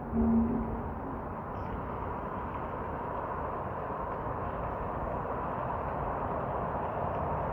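Steady, distant road-traffic noise with a faint, steady higher tone running through it. A short, low tone sounds about a third of a second in.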